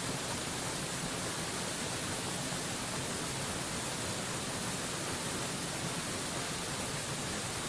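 Steady, unbroken rush of a waterfall, an even hiss that is strongest in the high end and never changes.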